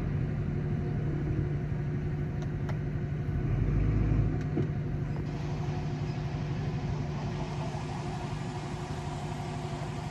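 Diesel engine of earthmoving machinery running steadily, with a louder low surge about four seconds in and a few faint clanks.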